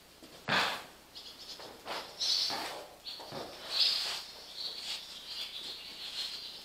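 Birds chirping in the background, with about five short rushing noises over the first four seconds, the first of them the loudest.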